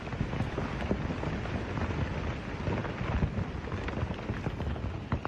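Volcanic eruption: a continuous low rumble with scattered crackles.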